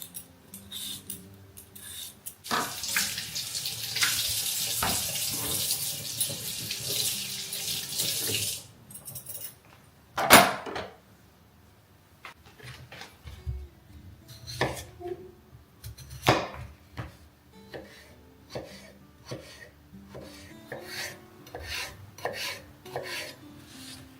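Kitchen tap running for about six seconds, then a sharp knock and a scatter of light clinks and taps of dishes and utensils.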